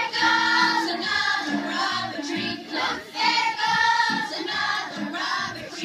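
A chorus of high voices singing a song with musical accompaniment.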